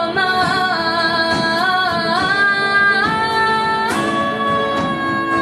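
A female singer holds long sung notes that step up and down, then sustains one long note near the end, over a live band of piano, guitar and drums.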